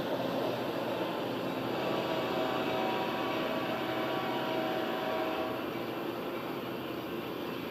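Caltrain commuter train pulling away from the platform, a steady rumble of the train on the track that eases slightly as it recedes. Faint steady tones sound over it for a few seconds in the middle.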